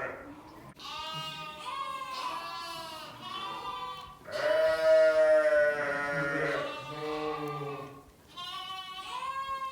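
Sheep bleating: a run of overlapping calls, the longest and loudest about halfway through, with a short pause near the end.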